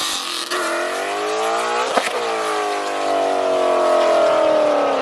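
Car engine held at high revs, its pitch dipping briefly with a sharp click about two seconds in, then sliding slowly down near the end.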